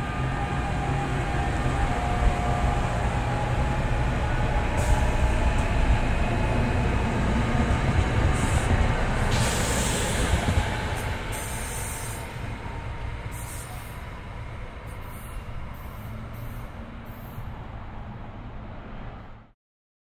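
NJ Transit GE Arrow III electric multiple-unit train running out of the station past the platform: a steady rumble of wheels on rail that swells and then fades as it moves off. A series of sharp clicks comes in the second half, and the sound cuts off suddenly near the end.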